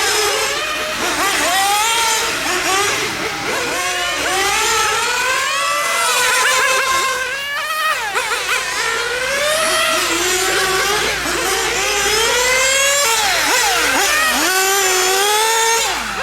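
Small nitro engines of 1/8-scale radio-controlled GT cars running at speed, their high-pitched notes rising and falling over and over as the throttle opens and closes. More than one engine note overlaps.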